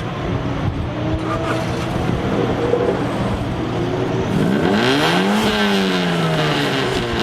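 Car engine under a steady drone, revving up with a rising pitch about four seconds in, then its pitch falling away over the next second and a half.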